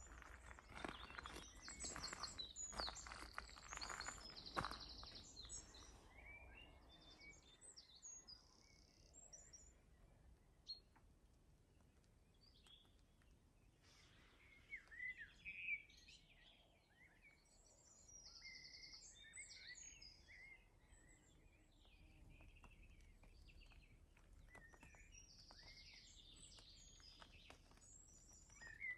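Faint outdoor birdsong: several small birds chirping and trilling on and off. The calls are busiest in the first few seconds and again around the middle.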